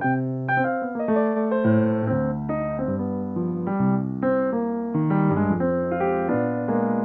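Solo piano playing a steady stream of notes, a melody over held chords in the bass.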